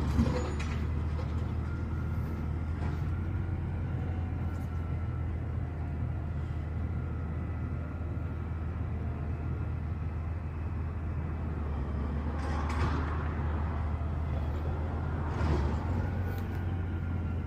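Garbage truck engine running steadily with a low hum, and two brief louder noisy bursts near the end.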